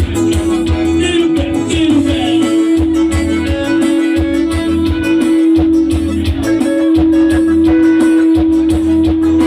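Forró music played loud, with plucked guitar over a steady bass beat and one long note held beneath.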